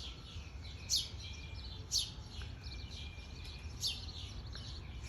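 Small songbirds chirping: sharp, descending chirps, the loudest about once a second, with fainter ones in between.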